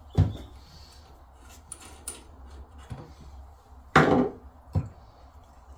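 A few sharp knocks of hard objects being handled and set down during plumbing work: one just after the start, the loudest at about four seconds with a short rattle after it, and a lighter one just after that.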